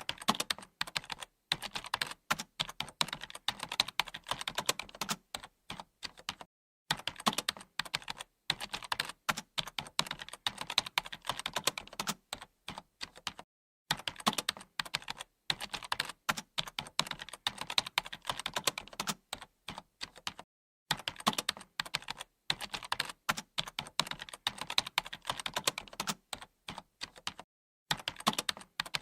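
Computer keyboard being typed on quickly and continuously, a dense run of key clicks broken by brief pauses every several seconds.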